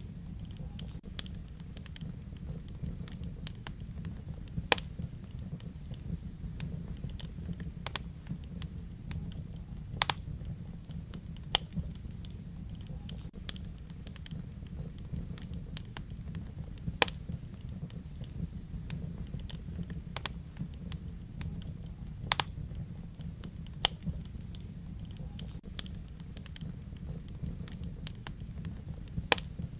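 Wood fire in a fireplace crackling, with sharp pops scattered at irregular intervals over a steady low rumble of the flames.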